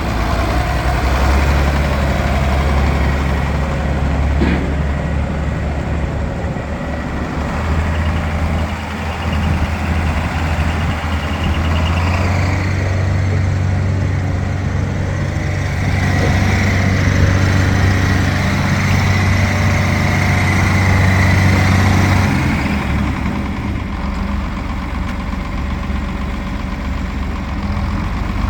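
John Deere 4010 tractor's six-cylinder engine running steadily, its speed picking up about eight seconds in and settling back down about three-quarters of the way through.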